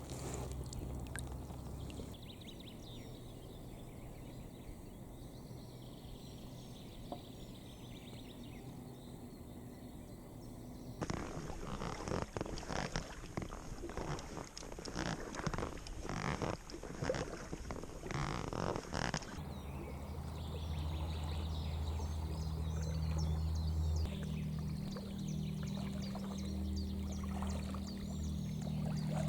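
Water splashing and trickling from kayak paddling on a lake, with quiet stretches between bouts of strokes. A low steady hum comes in during the second half.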